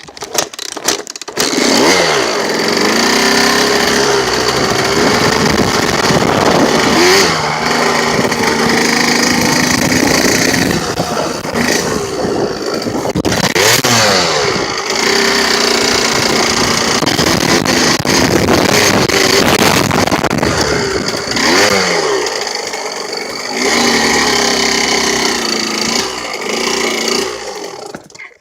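KTM 65 single-cylinder two-stroke dirt bike engine starting about a second and a half in, then running and being revved up and down several times before it cuts off near the end.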